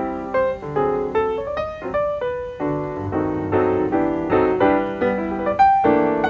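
Background piano music: a melody of struck notes, each fading away, over a lower line of chords.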